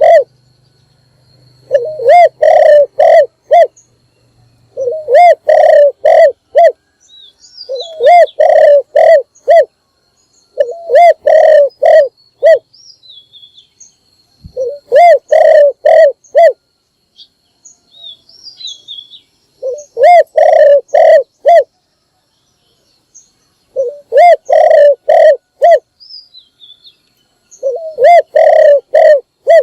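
Spotted dove cooing in repeated phrases of four or five coos, eight phrases with short pauses between them. Faint high chirps of other small birds come in between the phrases.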